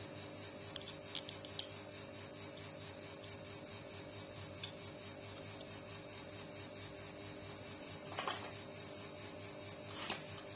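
A few sharp metallic clicks and taps, then scraping and rubbing noises near the end, from tools and metal parts being handled while a sewing machine is worked on, over a faint steady hum.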